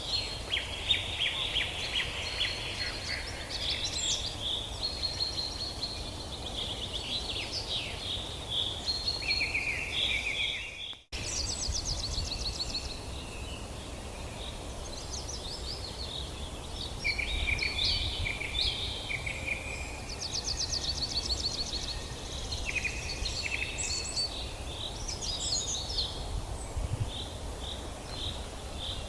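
Several forest songbirds singing and chirping at once: overlapping trills, rapid chirp series and short whistles, over a steady low rumble. The sound cuts out for a moment about eleven seconds in, then the birdsong resumes.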